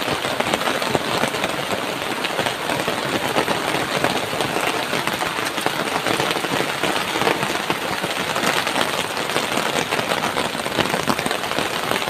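Heavy rain pouring down steadily, a dense patter of drops.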